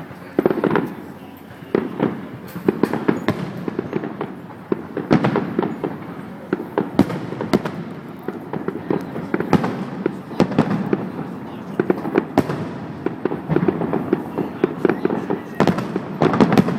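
Fireworks display: a continuous run of bangs and crackles, many shells bursting in quick succession, with a louder cluster near the end.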